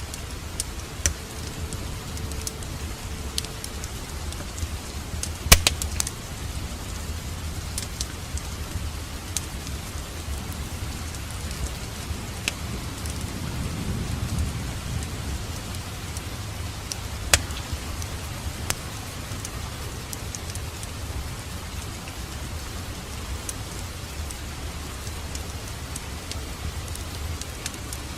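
Wood fire crackling in a fireplace: a steady low rumble and hiss with scattered sharp pops, two of them louder, about five seconds in and again near seventeen seconds.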